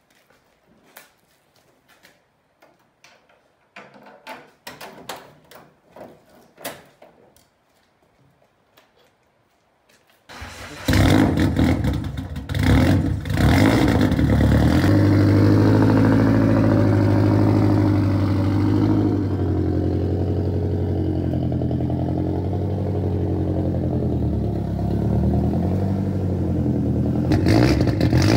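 Scattered light clicks and knocks, then about ten seconds in a Nissan S13's SR20DET turbo four-cylinder starts suddenly and runs at a steady, loud idle, picking up again near the end.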